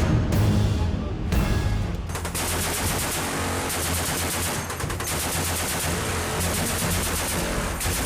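Rapid bursts of automatic machine-gun fire starting about two seconds in, over background music.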